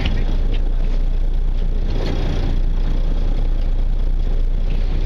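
Fishing boat's engine running steadily at idle, a constant low rumble under a wash of noise.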